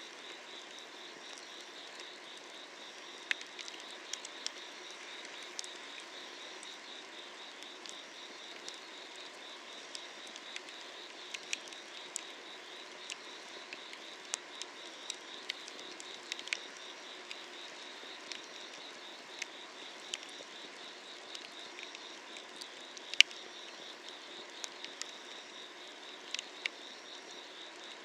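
Firewood crackling and popping in a fire under a cast-iron cauldron, with scattered sharp snaps, the loudest about 23 seconds in. Behind it, a steady, pulsing chorus of night insects.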